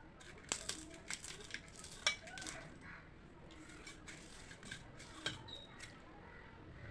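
Scattered light clicks and clinks of a dish and food being handled, the sharpest about two seconds in.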